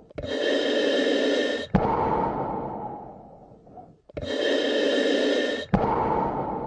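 Slow, deep human breathing, two full breaths about four seconds apart. Each breath has a steady, even stretch of air noise that stops abruptly, followed by a longer one that fades away.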